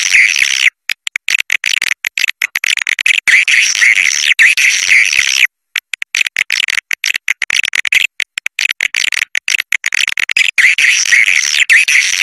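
Swiftlet lure call: a dense, high, chattering twitter of many swiftlets calling at once. It plays as a recording with abrupt short breaks, used to attract swiftlets to a nesting house.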